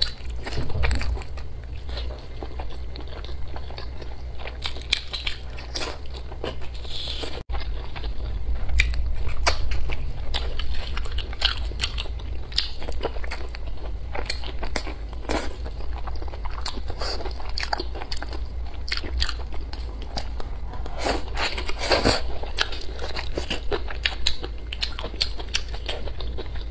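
Close-miked chewing and biting of spicy braised pig intestines and green vegetables, with many short mouth clicks throughout over a steady low hum.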